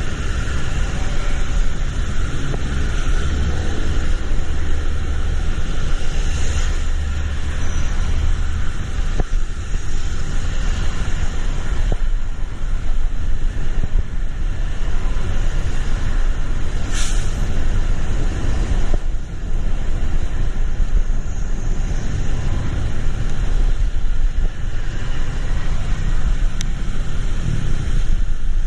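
Road traffic in the rain: a steady wash of rain and tyres on wet road over a low engine rumble, with a brief hiss about 17 seconds in.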